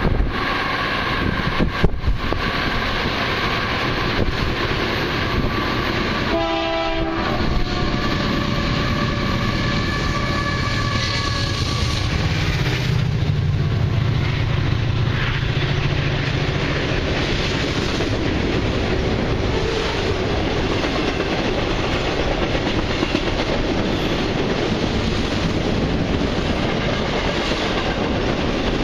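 A freight train's locomotive air horn sounding in long blasts for the first ten seconds or so, then the diesel locomotives' engines rumbling past, followed by the steady rolling clatter of intermodal cars on the rails.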